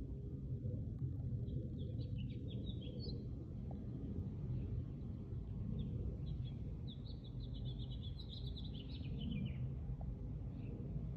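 Small birds chirping: a short burst of quick chirps about two seconds in and a longer run of rapid chirps in the second half, over a steady low outdoor rumble.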